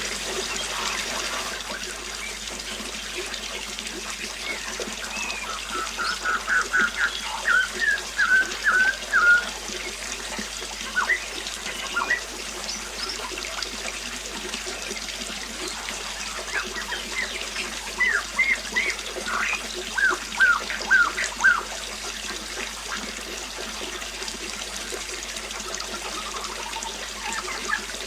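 Water trickling steadily, with a bird singing two runs of short repeated notes, one starting about five seconds in and the other about seventeen seconds in.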